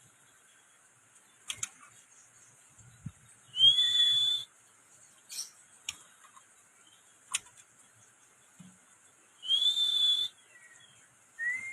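Young white-rumped shama giving sharp single clicking calls a second or two apart, with two long whistles, each under a second, that rise and then hold steady.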